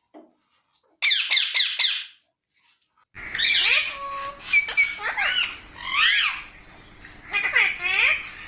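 Rose-ringed parakeets (Indian ringnecks) squawking: a quick burst of about five harsh calls about a second in, then from about three seconds in a run of calls that swoop up and down in pitch.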